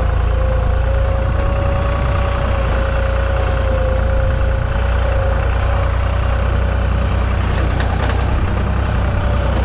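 Deutz 55F tractor engine running steadily under load while pulling a cultivator, with a steady whine over the low engine sound.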